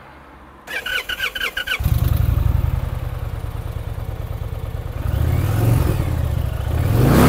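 Indian Pursuit's liquid-cooled V-twin engine being started: about a second of starter cranking, then the engine catches and settles into a loud, even idle. It is revved up near the end, rising in pitch.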